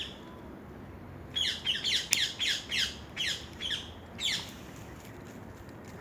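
A bird calling: a run of about ten quick, harsh notes, each sliding down in pitch, starting about a second in and lasting some three seconds.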